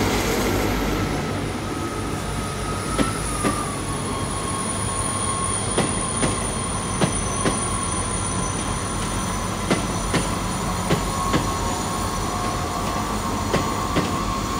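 Trains moving slowly through the station: wheels clicking over rail joints in close pairs as each bogie passes, over a low rumble and a steady high wheel squeal.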